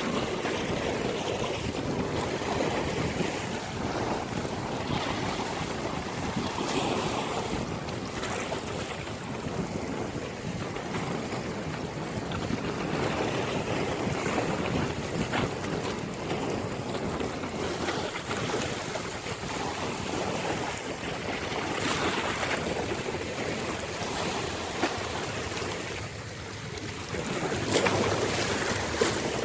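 Ocean waves breaking and washing on a beach, a continuous rush of surf with wind on the microphone; a louder wave surges in near the end.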